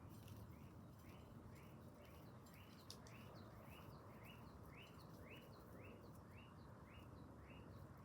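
A bird chirping over and over, about two short rising chirps a second, faint against a low background hiss.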